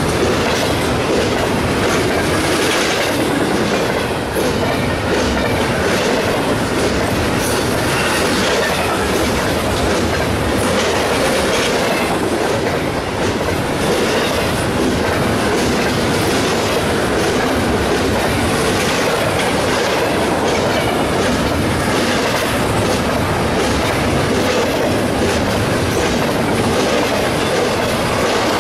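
BNSF intermodal freight train's cars rolling past at close range. A steady rumble of steel wheels on the rails, with repeated clicking as the wheels cross rail joints.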